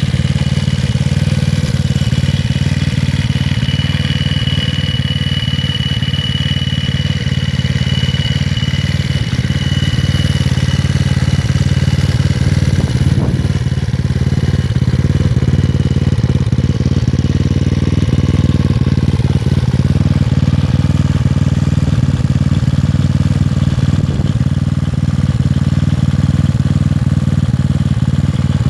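Honda Ruckus scooter's 232cc Taida big-bore GY6 engine idling steadily through a Yoshimura exhaust.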